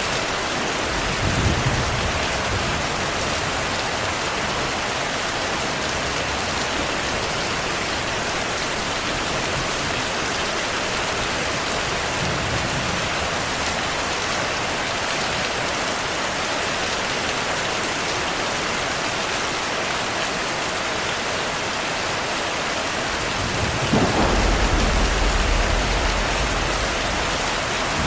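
Steady heavy rain with rolls of thunder: a short low rumble about a second and a half in, a faint one midway, and a longer, louder rumble starting near the end.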